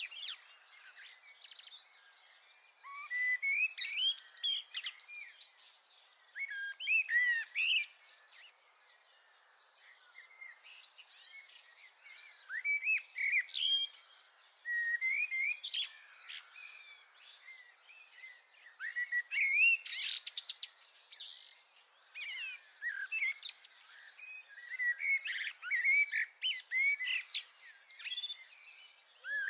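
Small garden songbirds chirping and twittering: many short, quick calls overlap in bouts, with brief lulls between them.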